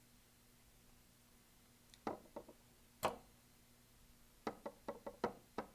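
Light taps and clicks of a paintbrush against the palette and water cup: a few single clicks, then a quick run of about seven taps near the end.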